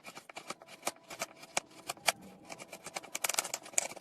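A rapid, irregular series of sharp clicks and crackles that grows denser and louder about three seconds in, then cuts off abruptly.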